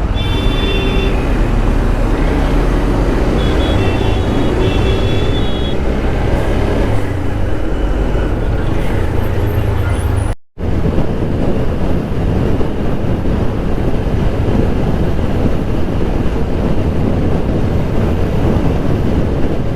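Motorcycle riding along a busy highway: steady engine and wind rumble on the rider's camera microphone, with traffic around. Vehicle horns sound at the start and again about four seconds in; the sound drops out for a moment at a cut about ten seconds in, then the riding noise carries on.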